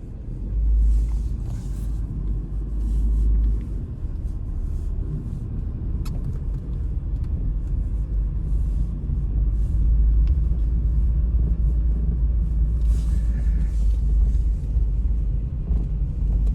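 Strong wind rumbling, deep and steady, cutting off abruptly at the end.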